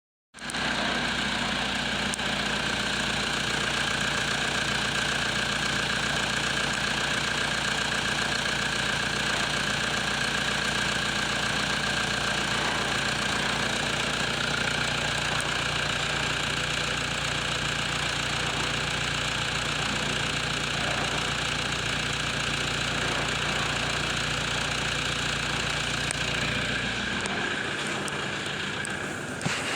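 Toyota Hilux 1KD 3.0-litre four-cylinder turbo diesel idling steadily. Near the end its low engine hum drops away, and a single click follows.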